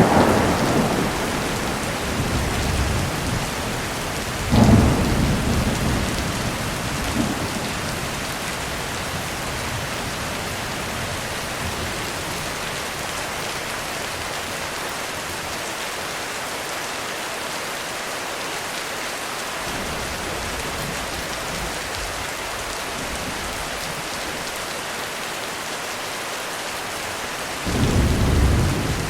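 Heavy rain drumming steadily on a roof, with thunder over it. A sharp crack right at the start rolls off over a couple of seconds, a rumbling peal comes about four and a half seconds in, and another low rumble starts near the end.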